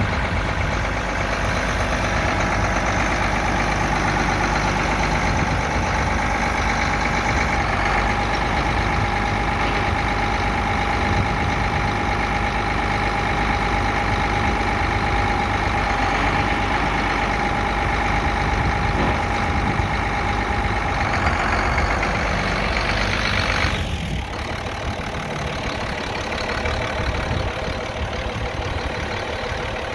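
Allis-Chalmers 7060 tractor's six-cylinder diesel engine running steadily, with a steady whine over it. Late on, the whine stops and the engine gets quieter.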